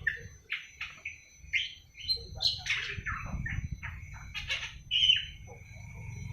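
Young awar-awar bird twittering: a quick run of short chirps and squawks, then a longer held note near the end, as it starts to sing. A low steady hum sits underneath.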